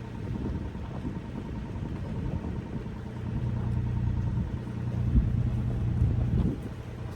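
Diesel engine of a John Deere 27D mini excavator running, getting louder for a few seconds in the middle as it takes on load, with a low thud about five seconds in.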